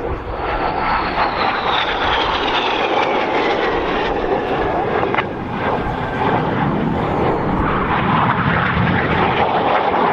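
Red Arrows' BAE Hawk T1 jets, with Rolls-Royce Turbomeca Adour turbofan engines, passing by. The engines make a loud, steady rush, and their whine falls in pitch over the first several seconds as the jets go past.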